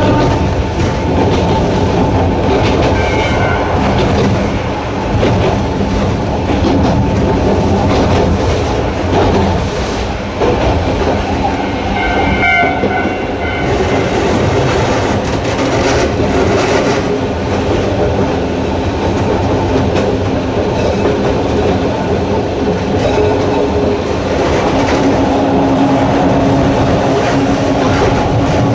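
A narrow-gauge electric railcar running, with its nose-suspended traction motors and the steady noise of wheels on rail. Near the end a low motor tone grows stronger.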